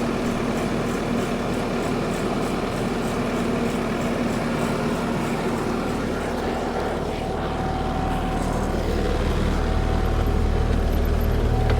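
Bobcat T630 tracked skid steer's diesel engine running steadily, its low drone growing louder about three quarters of the way through as the machine works.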